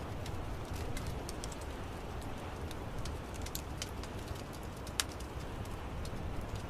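Wood fire crackling in an outdoor fireplace: scattered sharp pops and snaps over a steady low rumble, with one louder pop about five seconds in.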